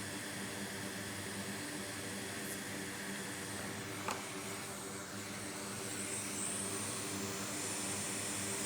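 Steady hum and airy hiss of a running bench fan, with one faint click about four seconds in; the hiss grows a little brighter after about six seconds.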